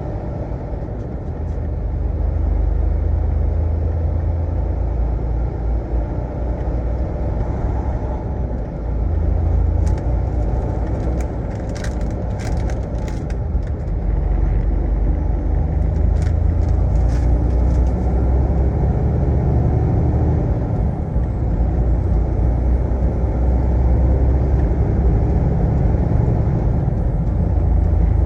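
Heavy truck running on the road: a steady low engine and road rumble that swells and eases, with a few brief sharp clicks around the middle.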